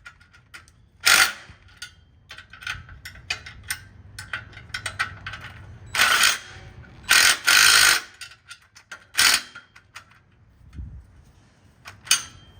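Ratchet wrench clicking in short runs while tightening the exhaust-to-catalytic-converter flange bolts, with several louder bursts of fast ratcheting and fainter clicks of metal tools between them.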